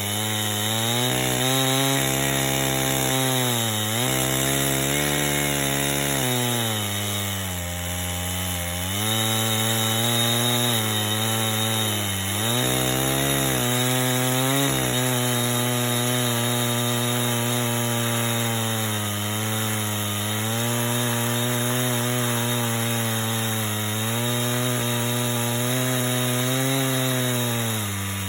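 Chainsaw fitted with a portable plank-cutting mill, running at high revs while ripping along a log. The engine pitch sags under load and climbs back several times, about every four seconds early on, then holds steadier before dipping again near the end.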